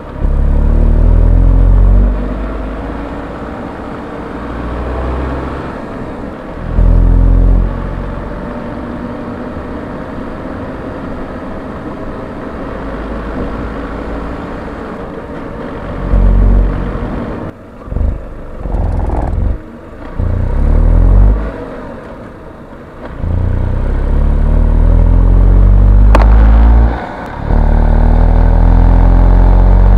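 Tata Altroz's 1.2-litre naturally aspirated three-cylinder petrol engine, heard from inside the engine bay, revving up under acceleration and dropping back at each gear change, several times over, with a heavy low rumble. A single sharp click comes near the end.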